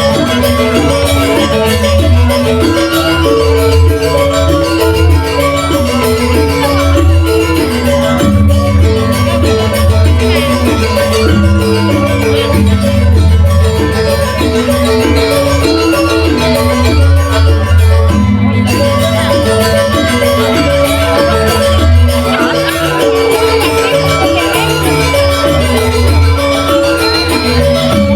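Balinese gamelan playing dance music: bronze metallophones ringing a stepping melody over a steady deep low end.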